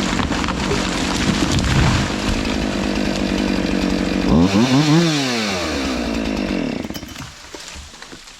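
Chainsaw running steadily, then revving up and winding back down about four and a half seconds in, and dropping away near the end.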